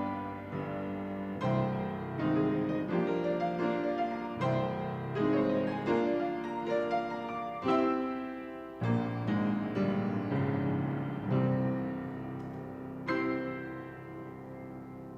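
Piano playing a slow piece in chords, each chord struck and left to ring over a low bass line. The last chord, about thirteen seconds in, dies away slowly.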